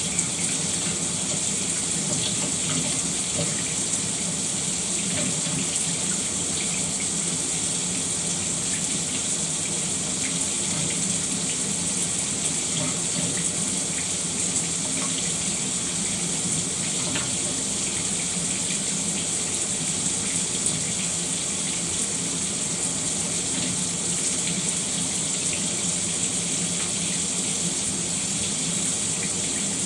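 Shower running steadily, an even hiss of water spraying and splashing down.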